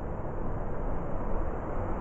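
Winter storm wind blowing in a steady, deep rush, slowly growing a little stronger.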